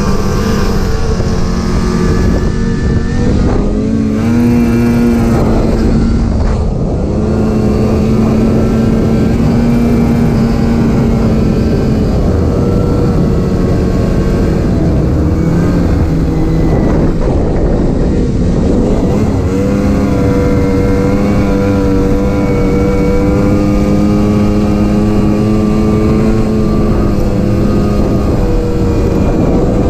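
Snowmobile engine running under way, its pitch rising and falling several times as the throttle is eased off and opened again.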